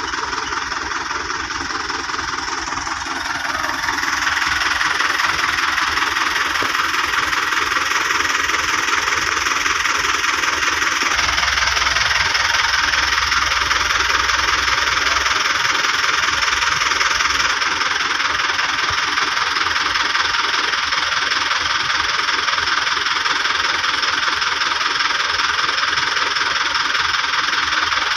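Vehicle engine running steadily, getting louder about four seconds in.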